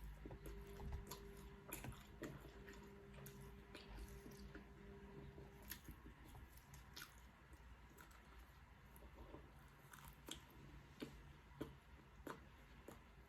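A person chewing and biting food close to the microphone, with scattered soft crunchy clicks. A faint steady hum underneath stops a little before halfway through.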